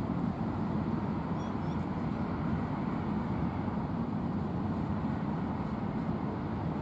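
Loaded open freight wagons rolling slowly past on a curve, a steady low rumble from their wheels on the rails.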